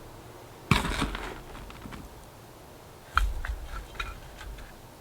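Crackling, rustling handling noises from repotting plants, typical of plastic pots and potting soil being worked, in two short bursts: one just under a second in and another about three seconds in.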